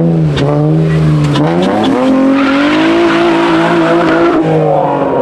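Car engine revved hard, its pitch dipping and then climbing and holding high, with tires squealing from about two seconds in to near the end.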